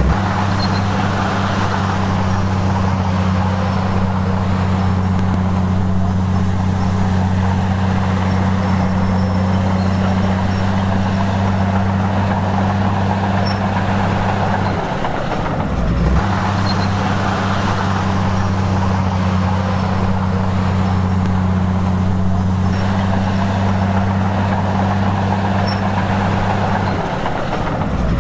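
Heavy diesel engine of earthmoving equipment running steadily under load, its low hum holding constant, with a brief break in the sound about halfway through and again near the end.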